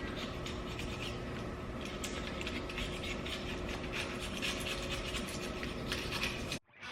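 A hand tool scraping and scratching over and over at old gasket material on the timing chain cover and oil pan rail of a small-block Chevy V8. It makes a dense run of quick, irregular scratching strokes that cuts off abruptly near the end.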